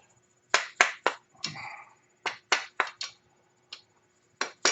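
Hammer striking the end of a screwdriver used as a drift to drive a stuck bushing out of an ATV's A-arm: about ten sharp, short metallic taps, unevenly spaced and some in quick pairs.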